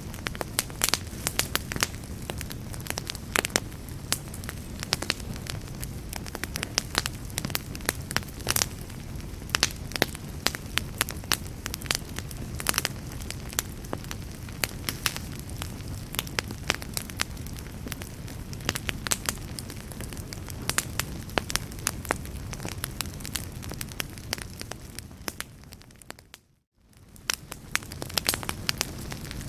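Wood fire crackling, with frequent irregular sharp pops over a steady low rumble. About 26 seconds in, the sound fades down to near silence and swells back up.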